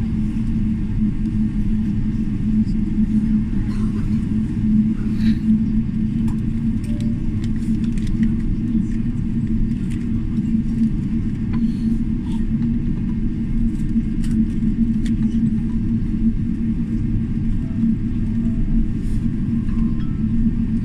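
Steady low cabin rumble of a Boeing 777-300ER taxiing after landing, its GE90 engines at idle, with a constant low drone and a few faint clicks.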